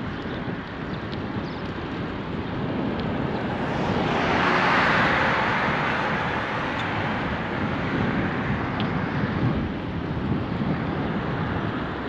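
Wind rushing over a GoPro microphone on a moving bicycle, with tyre and road noise beneath. It swells louder about four to six seconds in, then settles again.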